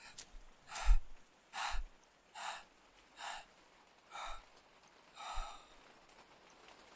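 A man breathing hard, out of breath: six heavy gasping breaths about a second apart, the first two with a low thump.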